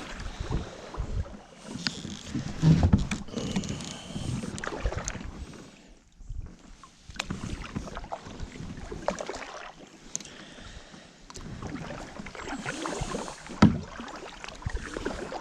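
Kayak being paddled: water splashing off the paddle blades in uneven strokes, with scattered knocks and clicks of the paddle and gear against the plastic hull, and one sharp knock near the end.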